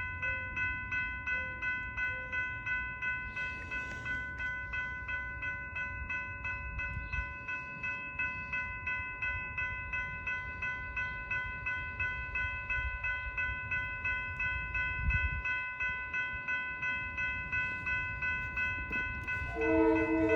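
Railroad grade-crossing warning bell ringing in a steady, even rhythm. Near the end a Metro-North commuter train's horn starts sounding in short honks for the crossing.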